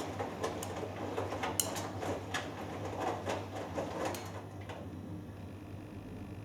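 Hoover Dynamic Next washing machine drum tumbling a load, with water and clothes swishing and irregular knocks over a steady low hum. The knocks and swishing stop about four seconds in, leaving the hum.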